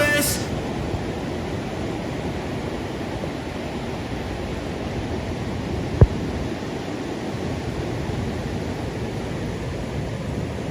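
Steady rushing noise of ocean surf and wind on the microphone from typhoon swell at a beach, with one sharp knock about six seconds in.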